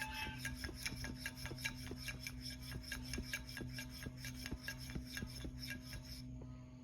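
Rhythmic rasping strokes, about four a second, over a steady hum; the strokes stop about six seconds in.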